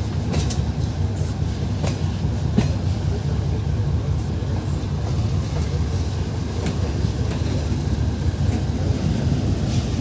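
Passenger train running on the rails, heard from aboard: a steady low rumble with scattered clicks and knocks from the wheels and running gear.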